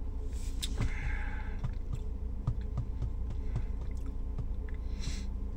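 Person chewing food with the mouth closed, small wet clicks about twice a second, with a breath or two, over a steady low hum.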